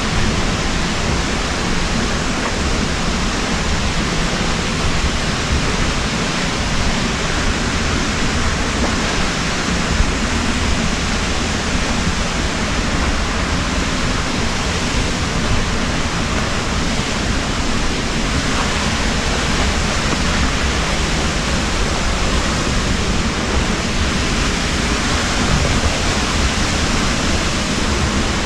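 Waterfall: a loud, steady, unchanging rush of falling water.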